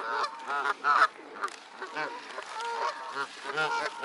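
A crowd of waterbirds calling, with many short, overlapping honking calls.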